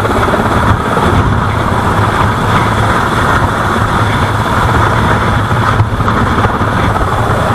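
A loud engine running steadily, with a continuous low hum under a constant rushing noise.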